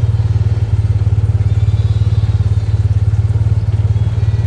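Engine running steadily at low speed, a loud, even low throb with no change in pace.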